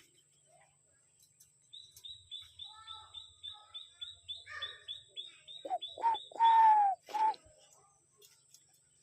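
Birds calling: a quick, even run of short high chirps, about three a second, and near the end a few louder, lower calls that fall in pitch, the longest lasting about half a second.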